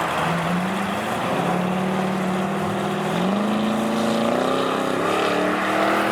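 Car engine revving, its pitch climbing in several steps and then dropping near the end.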